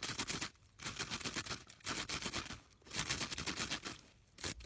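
Rapid, sharp crunching clicks in about four bursts, a second or so apart, from an Arctic fox crunching on frozen capelin.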